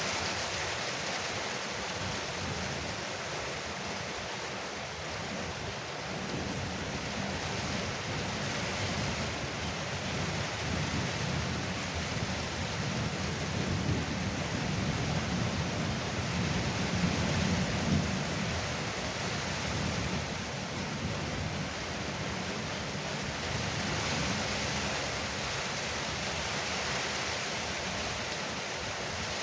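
Heavy rain drumming steadily on a porch roof, with a low rumble swelling and fading through the middle.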